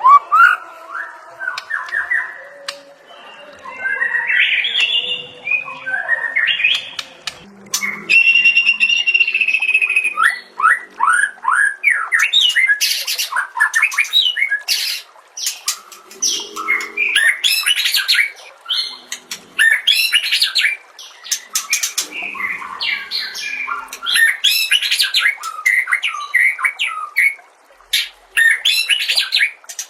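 White-rumped shama (murai batu) singing a long, varied song packed with mimicked phrases: whistled notes and glides, a held whistle about eight seconds in, then rapid strings of sharp, chattering notes.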